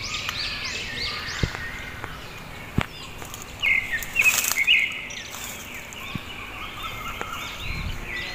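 Small birds chirping: quick runs of short, repeated high calls, with a louder, rougher burst about four seconds in.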